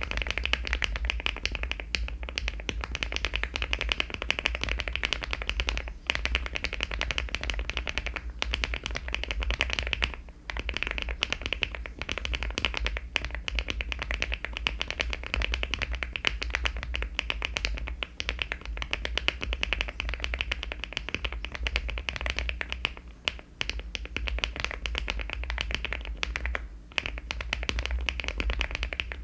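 Mechanical keyboard being typed on fast and continuously, HMX Macchiato linear switches (50 g) in a LEOBOG Hi75 aluminium-case keyboard with Cherry-profile keycaps, with a few brief pauses in the clicking. A steady low hum runs underneath.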